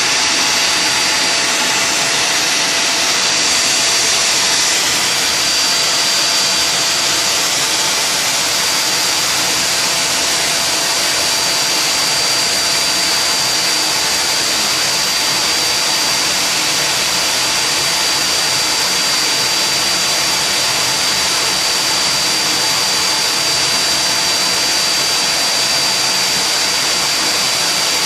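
Vacuum cleaner running steadily: an even, loud rushing noise with a faint high whine held over it.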